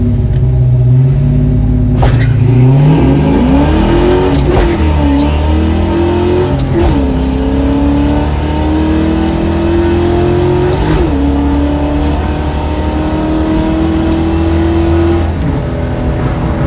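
Ford Mustang 5.0 302 V8 with shorty headers and Flowmaster 40 series mufflers, freshly fitted with new valve springs and roller rockers, accelerating hard through the gears. The engine pitch climbs and drops at shifts about four and a half, seven and eleven seconds in, then eases off near the end.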